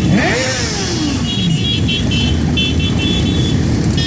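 Motorcycle engines running loudly, one rising in pitch and then falling away within the first second and a half, as in a rev or a pass-by.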